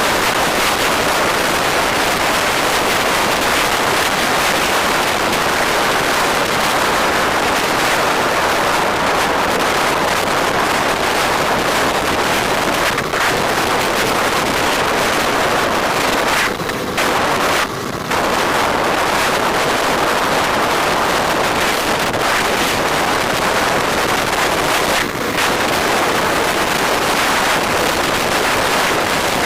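Steady wind and road noise on the microphone of a moving motorbike, with the vehicle sound blended in and a few brief dips in level.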